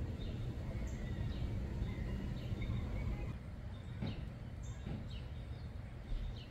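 Wild birds chirping: short, scattered calls and a few quick falling notes, over a steady low rumble.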